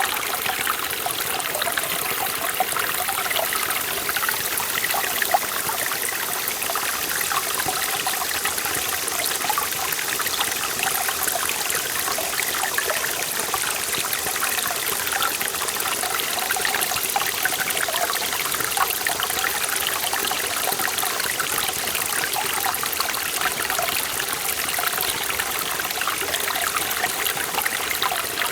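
Forest valley stream flowing over rocks: a steady rush of water with many small splashes and trickles.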